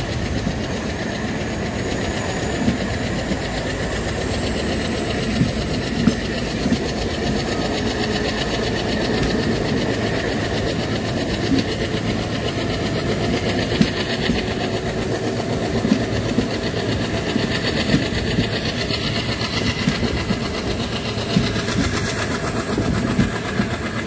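Diesel-hauled trains running side by side at speed: a steady rail rumble with wheels clacking over rail joints every second or few. A faint high whine slowly rises in pitch throughout.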